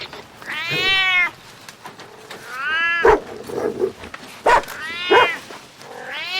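Domestic cat meowing several times, each meow a separate rising-then-falling call about a second or two apart.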